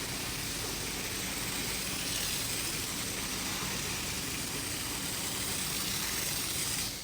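A steady rushing hiss with a faint low hum under it, cutting off abruptly at the very end.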